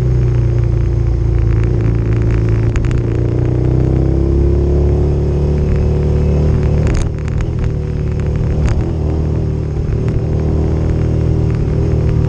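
Motorcycle engine running while riding a dirt trail, its pitch rising and falling with the throttle. A few sharp knocks come about halfway through.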